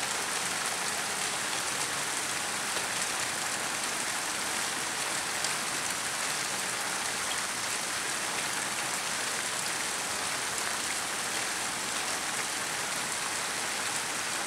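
Steady rain falling, an even hiss flecked with the faint ticks of individual drops.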